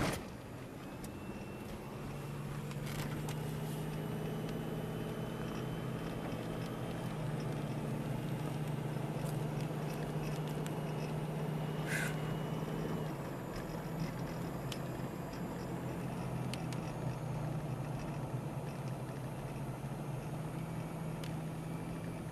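Car engine and road noise heard from inside the moving vehicle, a steady hum that gets louder about two seconds in, with a few light clicks.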